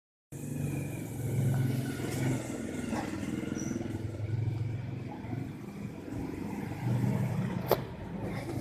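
Uneven low rumble of background noise, like passing vehicles, with one faint short high chirp about three and a half seconds in and a sharp click near the end.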